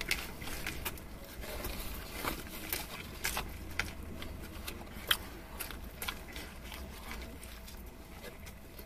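Two people wolfing down burgers: chewing and biting with scattered wet mouth clicks and smacks.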